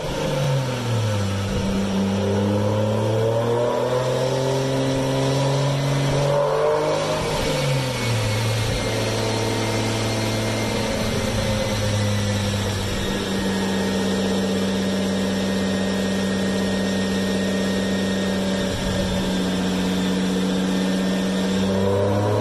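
Nissan Skyline R32's engine running under load, strapped on a chassis dynamometer. It holds a steady engine speed for long stretches, and its pitch drops about a second in and again around eight seconds in, as at gear changes.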